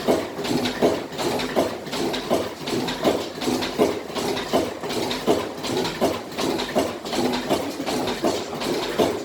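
1929 National NV 45 BHP oil engine, 12-inch bore and 20-inch stroke, running slowly with a steady, even beat of a little over one stroke a second, with lighter mechanical knocks between the beats.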